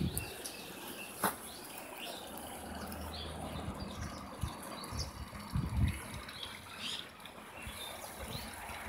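Small songbirds chirping and singing in short, scattered calls, with a few low thuds about five to six seconds in.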